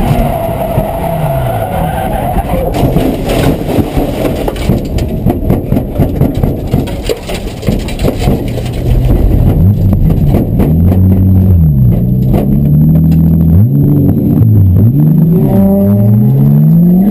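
Drift car's engine and drivetrain heard from inside the cabin, under hard driving. For the first half the engine is buried in a loud, rough rattling noise. From about halfway the engine note rises and falls again and again as the revs are pushed up and dropped through the corners.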